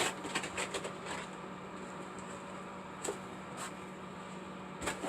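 A few light clicks and knocks, as of objects being handled, over a steady low hum.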